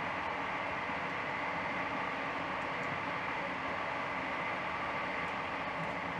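Steady running noise of a moving passenger train, heard from inside the carriage: an even hiss with a faint steady hum.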